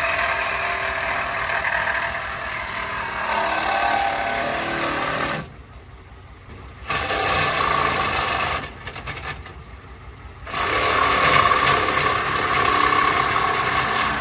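Power tool cutting, running in long stretches and stopping twice for a second or two, over the steady low clatter of an idling diesel engine.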